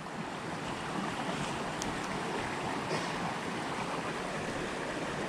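Steady rush of water from a rocky headwater stream.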